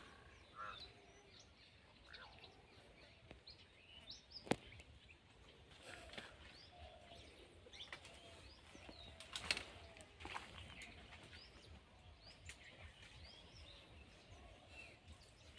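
Faint chirping of many small birds, scattered short calls throughout. Two sharp knocks stand out, about four and a half and nine and a half seconds in.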